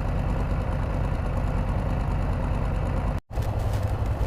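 Can-Am Spyder RT three-wheeler's engine running steadily with a low drone. It cuts out to silence for a moment about three seconds in, then carries on.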